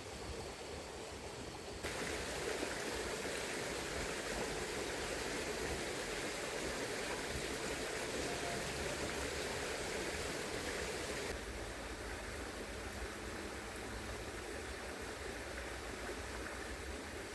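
Steady rushing of a shallow river flowing over its bed. It gets abruptly louder and brighter about two seconds in, then drops back suddenly past the eleven-second mark.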